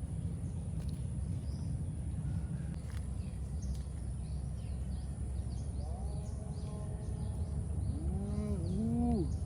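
Steady low outdoor noise with faint, scattered bird chirps. In the last few seconds a pitched call comes in, its pitch arching up and down a couple of times.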